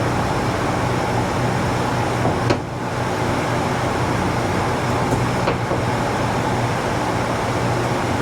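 A steady machine hum with a low drone that does not change, and faint clicks about two and a half and five and a half seconds in.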